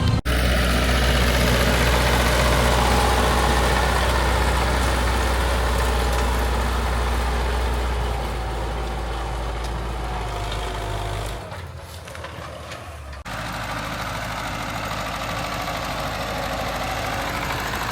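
Old tractor engine running steadily, with a deep low hum. It drops quieter for about two seconds around twelve seconds in, then runs on.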